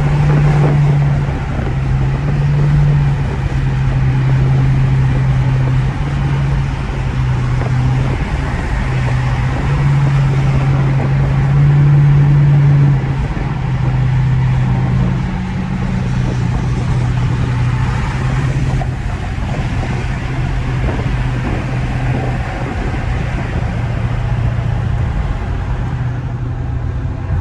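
Straight-piped Dodge Charger R/T V8 running down the road with a steady exhaust drone, its pitch stepping up and down as the engine speed changes.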